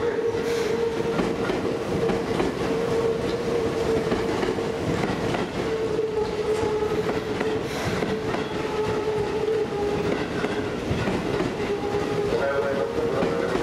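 Seibu 20000 series electric train pulling slowly out of the station: wheels rolling on the rails under a steady mid-pitched tone that holds throughout.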